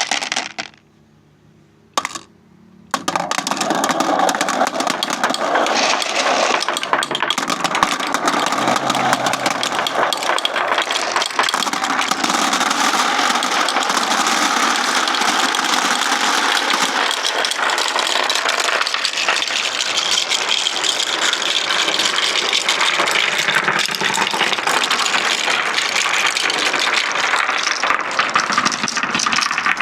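Many marbles clattering down a marble run track. A short burst of clacking, a second or two of near-quiet with one brief rattle, then from about three seconds in a dense, continuous rattle of many small clicks and knocks.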